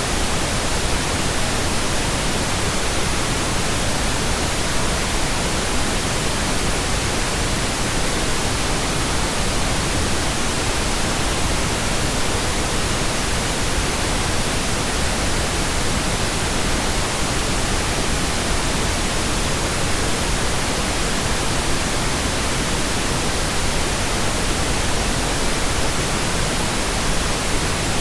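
Computer-generated pink noise: a steady, even hiss with no changes.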